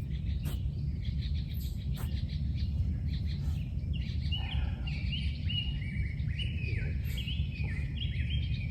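A bird chirping a quick run of short repeated notes, each dropping slightly in pitch, starting about halfway through, over a steady low outdoor rumble. A couple of faint ticks come early on.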